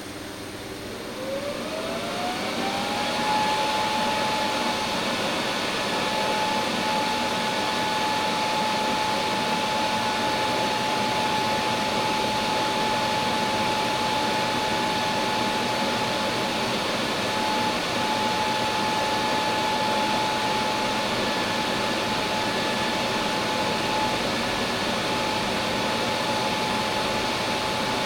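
An electric motor spins up with a rising whine over about two seconds, then runs steadily at full speed.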